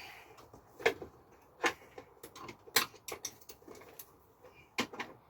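Scattered sharp clicks and knocks of small parts being handled as a wire plug is pushed through and seated in the plastic housing of a hot-tub pump unit.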